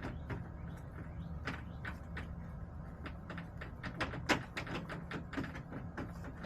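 Hens pecking and scratching at a plastic coop: an irregular run of sharp taps and clicks, a few a second, over a steady low hum.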